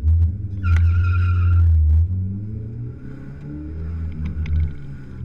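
Mazda B2200 race truck's 2.2-litre four-cylinder engine pulling hard off the start, with tyres squealing for about a second shortly after launch. The engine then runs on at a lower level, its pitch shifting up and down.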